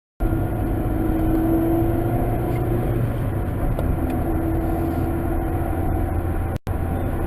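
A car driving: steady engine and road noise with a steady hum, cutting out for an instant about six and a half seconds in.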